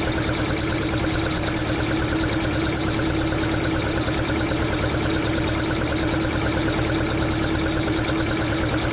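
Swapped AE101 20-valve 4A-GE engine in a Toyota AE86 idling steadily.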